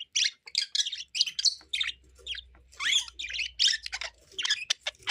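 Budgerigar chattering: a quick, continuous stream of short chirps and warbles, a male budgie's warble directed at a female.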